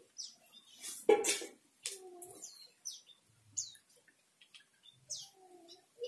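Mugimaki flycatcher calling in an aviary: short, high, falling chirps every half second or so. There is a louder brief sound about a second in and two soft, lower calls.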